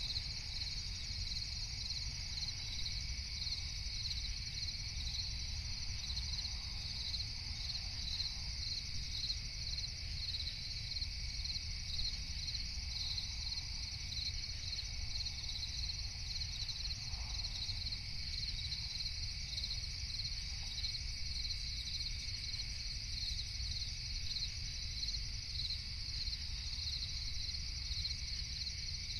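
Crickets chirping in a steady, rapid pulsing trill over a constant low rumble of noise.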